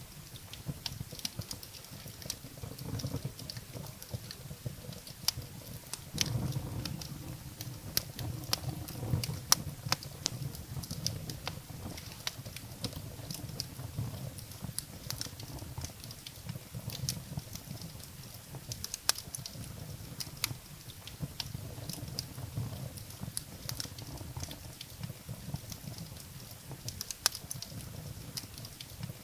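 Wood fire burning in a fireplace: firewood crackling and popping with frequent irregular sharp snaps over a low steady rumble of the flames.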